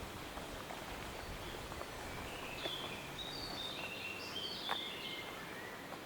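A songbird singing one phrase of short whistled notes at changing pitches, starting about two seconds in and lasting about three seconds, over a steady rustling forest background with a couple of sharp clicks.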